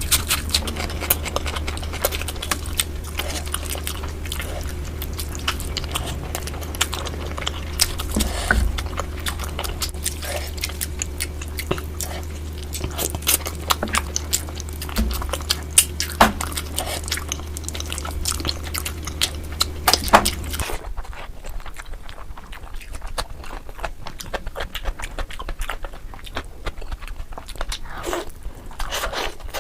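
Close-miked eating of tandoori chicken, sped up to double speed: rapid, clicky chewing and biting with occasional crunches. A low background hum cuts out about two-thirds of the way through.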